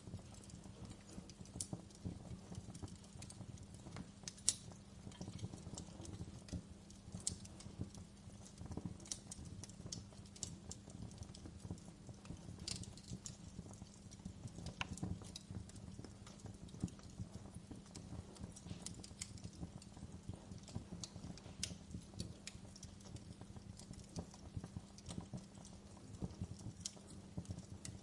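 Wood fire burning in a fireplace: a steady low rumble of flames with frequent irregular crackles and sharp pops, the loudest a pop about four and a half seconds in.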